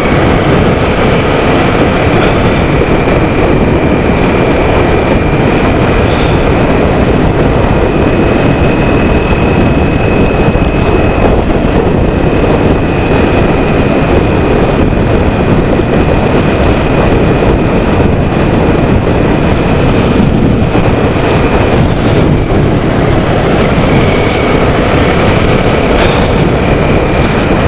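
Kawasaki Z400 parallel-twin motorcycle, fitted with a Toro aftermarket exhaust tip with its dB killer in place, running steadily while being ridden. Its engine and exhaust are mixed with heavy wind rush on the microphone.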